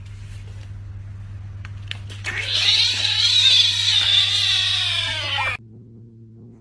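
A cat yowling: one long, loud, high-pitched cry starting about two seconds in, sagging slightly in pitch before it cuts off abruptly, over a steady low hum.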